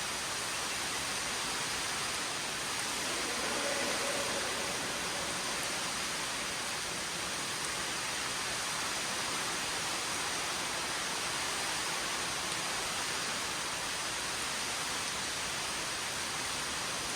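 Steady rush of a large underground waterfall falling inside a cave.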